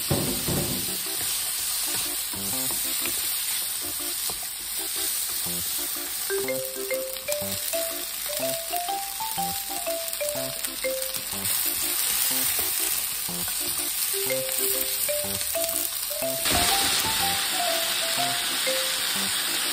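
Diced vegetables and ham sizzling steadily as they fry in a frying pan, the sizzle getting brighter near the end. A quiet melody of short notes plays over it from about a third of the way in.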